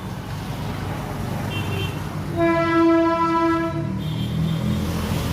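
A vehicle horn sounds once, a single steady note about a second and a half long, over a steady low rumble of engine and traffic.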